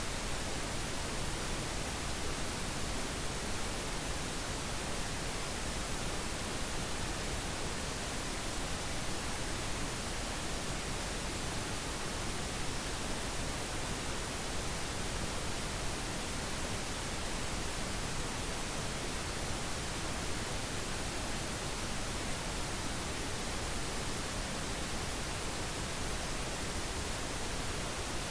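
Steady pink noise: an even, unchanging hiss with no events.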